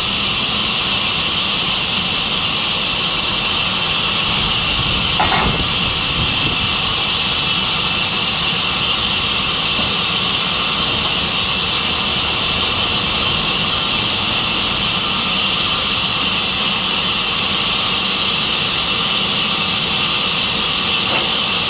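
Sawmill saw machine running steadily, a loud even hiss over a low rumble, with one brief knock about five seconds in.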